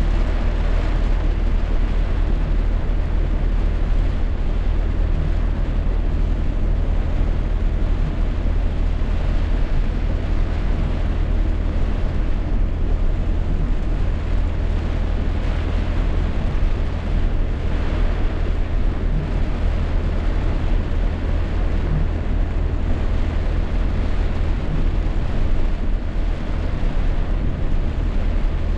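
Rainstorm: heavy rain and wind as a loud, steady rushing noise with a deep rumble underneath.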